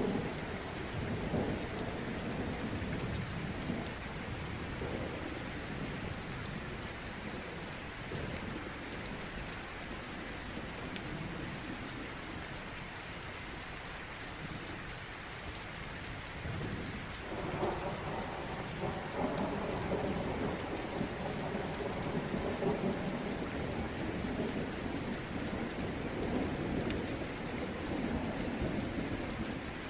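Steady rain with low rolling thunder that swells about halfway through and rumbles on, over the sharp ticks of a wood fire crackling in a fireplace.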